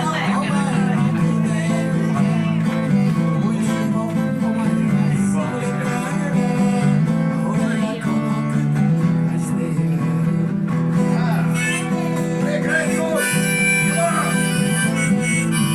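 Live acoustic guitar music playing an instrumental break between sung verses, with a harmonica coming in near the end.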